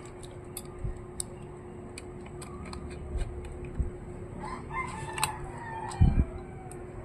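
A rooster crowing in the background about halfway through. Small sharp clicks and taps from handling laptop parts run throughout, with a couple of low thumps near the end.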